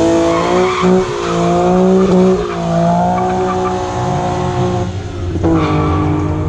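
Nissan Z car's V6 revved hard through an aftermarket exhaust and held at high revs, the pitch wavering. It drops briefly about five seconds in, then climbs again.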